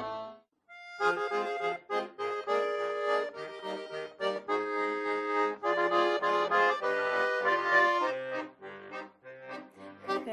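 Accordion playing an instrumental introduction to a Russian folk song: a melody of short notes over a regular beat of bass notes, starting after a brief pause about half a second in.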